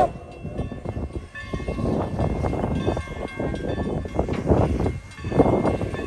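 Steam train under way: 1920 Alco steam locomotive No. 11 working, heard from a car behind it, a dense rumble of exhaust and running noise that swells and eases unevenly.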